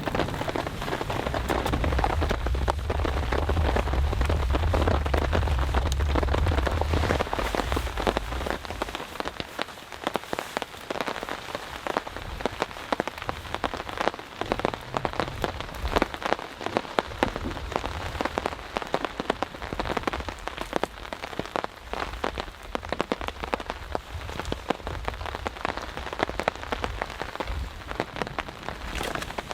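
Heavy thunderstorm rain pattering densely on surfaces, with a low rumble of thunder for the first seven seconds or so that then fades away.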